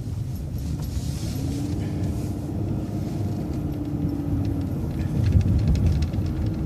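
Transit bus engine and drivetrain running, heard from inside the bus as a steady low rumble. A steady whine comes in about a second in, drops out past the middle and returns near the end.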